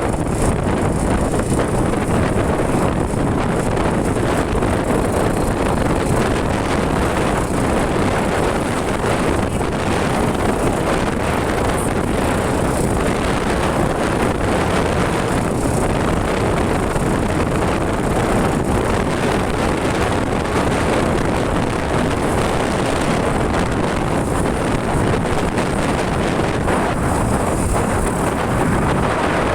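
Steady wind rush on the microphone of a moving motorcycle, mixed with the motorcycle's running engine and road noise.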